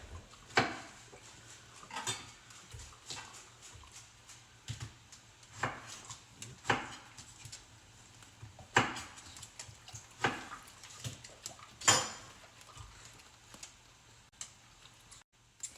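Kitchen knife chopping a pineapple on a cutting board: sharp, irregular chops every second or two.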